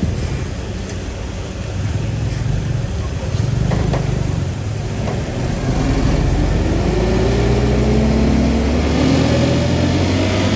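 Heavy diesel engine running, its pitch climbing steadily through the second half as it revs up under load, with a few faint clanks in the middle.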